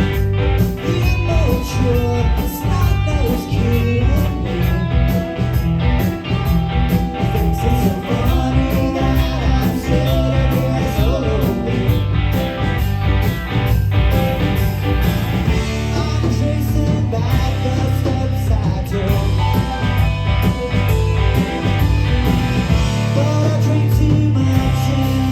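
A rock band playing live: electric guitars over bass and a steady drum beat.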